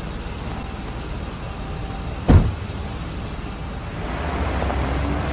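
Steady low vehicle-like rumble with one sharp thump a little over two seconds in. Near the end a louder noisy ambience with a low hum comes in.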